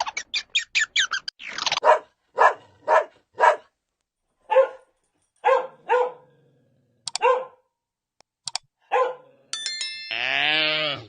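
A dog barking about a dozen times in short, separate barks with uneven gaps. Near the end a longer, drawn-out animal call cuts in.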